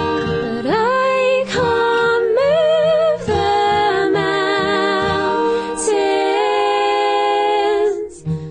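Music: a woman singing long wordless notes, sliding up in pitch about half a second in and holding each note with vibrato, over acoustic guitar. The voice stops shortly before the end.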